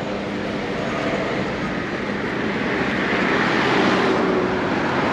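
Street traffic, with a vehicle passing close by: a broad rush of engine and tyre noise that swells to its loudest about four seconds in.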